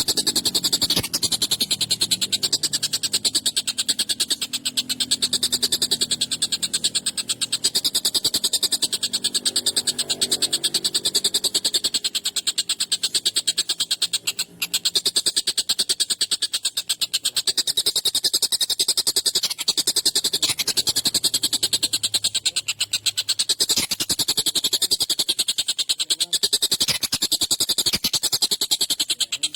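Tengkek buto kingfisher calling in a long, rapid, harsh rattling chatter, a very fast run of notes with a brief break about fourteen seconds in.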